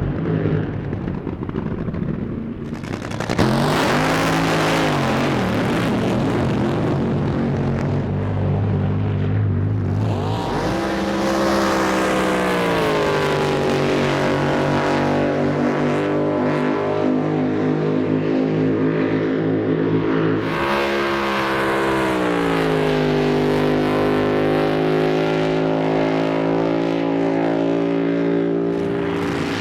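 Drag boat engines running loud and unmuffled. About three seconds in the noise jumps sharply louder, and from about ten seconds a steady high engine note takes over, dipping in pitch and settling about twenty seconds in.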